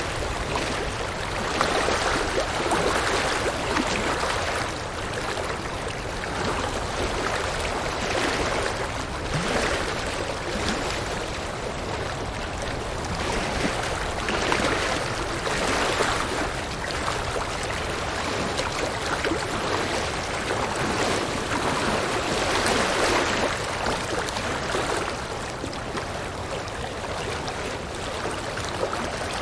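River water rushing and splashing over rocks, a steady rush that swells and eases every few seconds.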